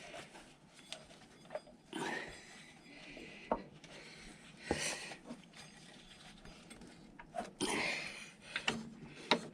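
Light metallic clicks and knocks with short scraping and rustling: hand work on a scooter's variator pulley and nut, turned and tightened little by little by hand.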